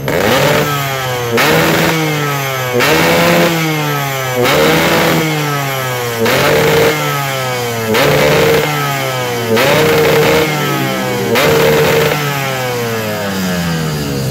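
Two-stroke motorcycle with a round expansion-chamber exhaust, revved in short throttle blips about every one and a half seconds, the pitch rising and dropping back each time. The builder says the carburettor is not set up right.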